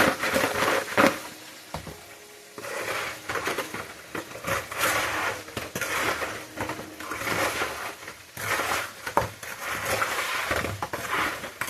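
Kitchen utensils scraping and clinking against a pan in irregular bursts as fried chicken wings are moved and tossed in lemon pepper butter.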